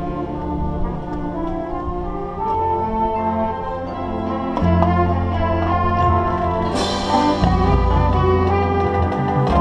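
Marching band brass section playing slow, sustained chords over deep low brass notes, growing louder about halfway through, with a cymbal crash about seven seconds in.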